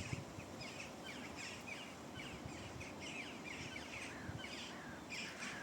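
Many small birds chirping together, a dense stream of short, high, downward-sliding chirps, over a low outdoor rumble.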